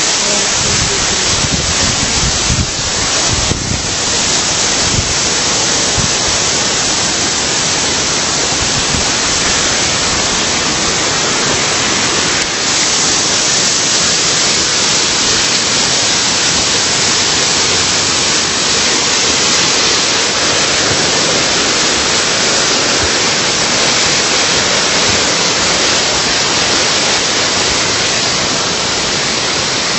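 Steady, loud rush of water pouring down a waterfall, heard close by.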